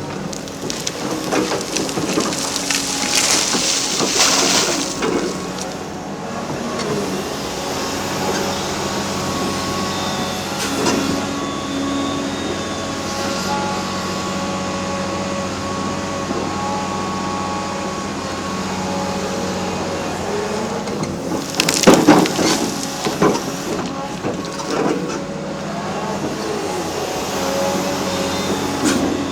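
Heavy tracked excavator's diesel engine running steadily under hydraulic load, with a whine rising and falling, while concrete is crushed and broken: crunching and cracking in the first few seconds, and a loud crash of breaking concrete about three-quarters of the way through.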